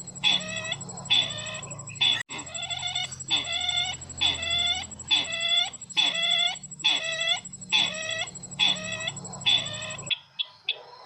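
Bird-lure recording of the call of the bird known locally as sisintar: a short call with several pitch lines, repeated evenly about every 0.6 s. It is played over a steady faint high tone and hum, and cuts off abruptly near the end.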